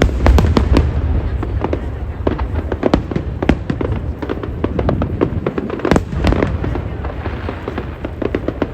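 Aerial fireworks bursting in rapid, overlapping succession: many sharp bangs and crackles a second over a continuous low rumble.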